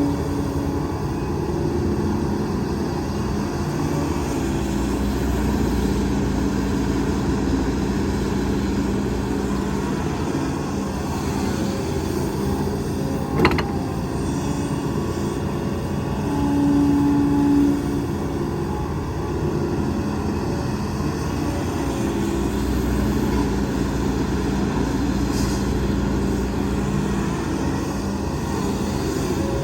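Diesel engines of earth-moving machinery, an excavator and dump trucks, running steadily. A single sharp clank comes about halfway through, and a few seconds later a louder steady tone lasts about a second.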